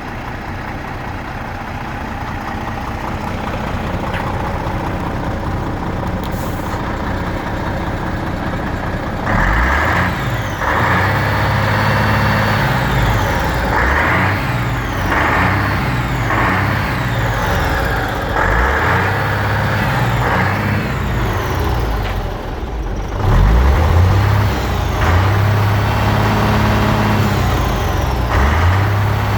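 MAN 19.403 F2000 truck's turbo-diesel inline-six running: steady at first, then from about nine seconds in its note rises and falls again and again as it is revved, briefly dropping away and coming back louder a little after twenty seconds.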